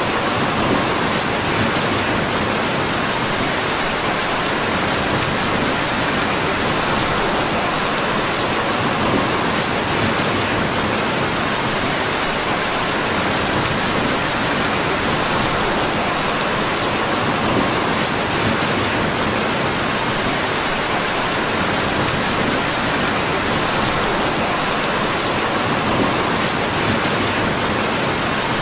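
Steady, heavy rain falling on a surface, an even unbroken hiss, with a few faint sharp ticks scattered through it.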